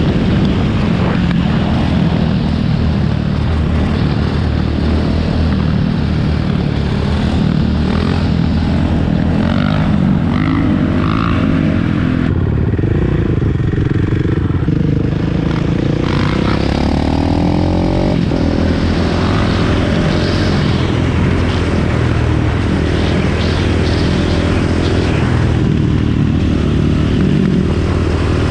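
Dirt bike engine running loud and close, the sound starting abruptly and holding steady, with its pitch rising and falling in places around the middle.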